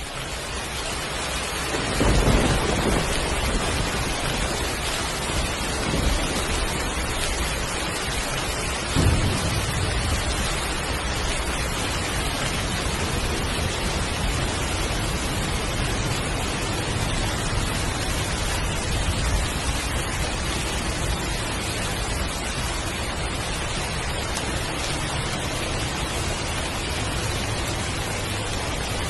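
Heavy rain pouring steadily, fading in at the start, with rolls of thunder about two, six and nine seconds in, the first the loudest.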